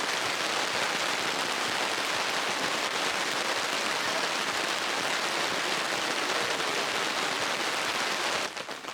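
Rain falling steadily, an even dense hiss. Near the end it drops to a quieter, more scattered patter.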